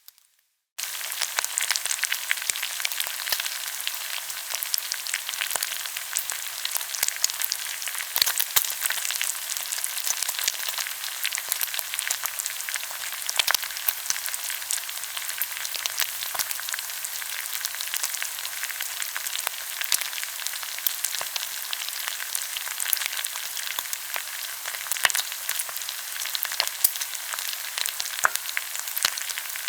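Food frying in hot oil in a pan: a steady sizzle with frequent sharp crackles and pops, starting suddenly about a second in.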